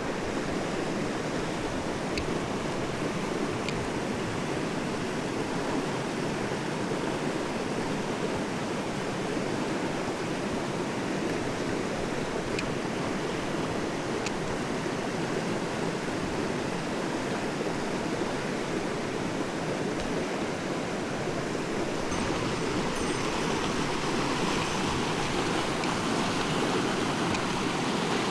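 A mountain stream rushing steadily. The rush grows a little louder and hissier for the last several seconds.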